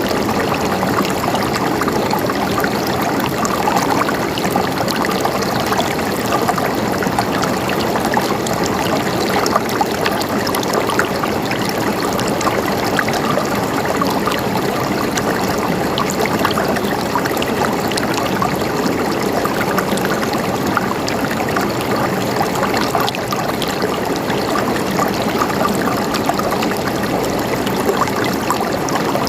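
Running water gurgling and trickling steadily, a constant splashing rush dotted with small droplet splashes.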